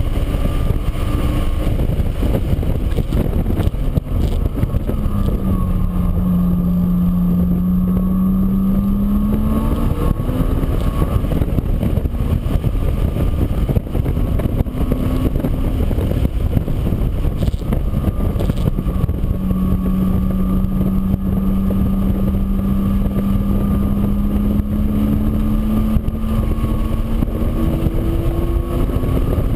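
A motor running steadily over a heavy low rumble. Its pitch sags and climbs back up twice.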